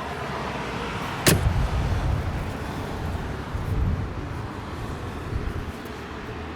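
A single sharp clunk from the Mercedes-Benz G500's body about a second in, as the bonnet is being released, followed by low rumbling handling noise over a steady background hum.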